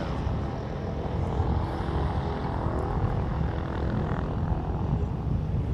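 Steady low engine drone with faint even tones running through it.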